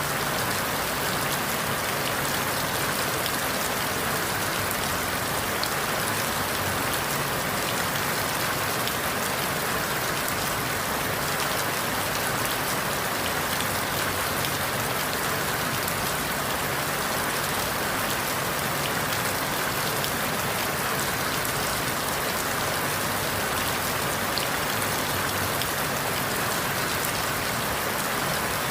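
Steady rain falling, an even hiss with scattered small drop patters, strongest in the middle and upper range and without changes or sudden sounds.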